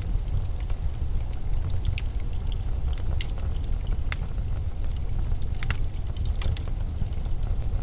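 Blizzard wind ambience: a steady, deep rumble of storm wind with scattered sharp clicks and crackles laid over it.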